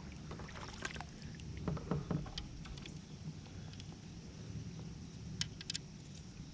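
Knocks and clicks of gear being handled aboard a plastic fishing kayak, over a steady low rumble. There are a few soft knocks about two seconds in and a few sharp clicks near the end.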